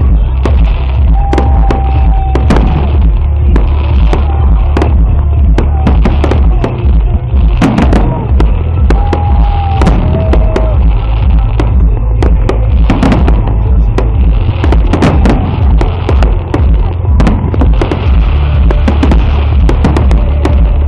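Fireworks display: a dense, irregular string of sharp bangs and crackles from bursting shells over deep booms. Two short whistles come about a second in and again near the middle.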